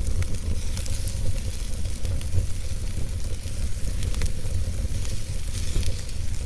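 Wood fire crackling in a fireplace, with scattered sharp clicks over a steady low rumble.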